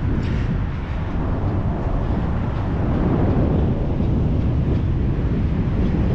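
Steady wind buffeting the microphone: a continuous low rumble with a hiss above it.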